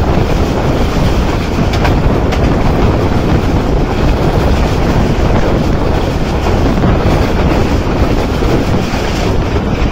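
Passenger train coaches of the Musa Pak Express running at speed, a steady loud rumble of wheels on the track heard from an open coach window, with a few sharper clicks about two seconds in.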